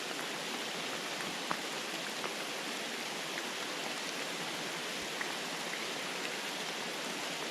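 Steady rain falling alongside a running creek, an even wash of water noise with a few faint ticks of drops.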